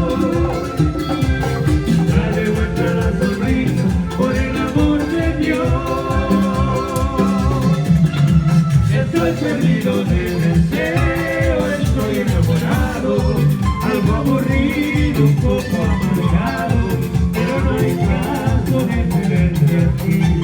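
A band playing Latin dance music, with a steady driving beat and a singer's voice.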